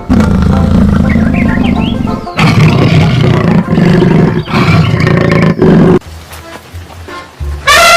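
Lion roaring: one long roar, then three shorter roars of about a second each. A loud, steady horn-like tone starts near the end.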